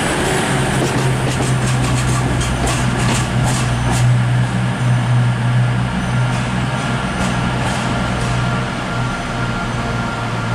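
A train's steady low drone, with scattered sharp high clicks over the middle seconds.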